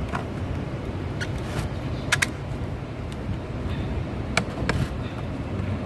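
Steady low hum of idling vehicles and traffic, with a few sharp clicks and knocks, a pair about two seconds in and two more in the second half.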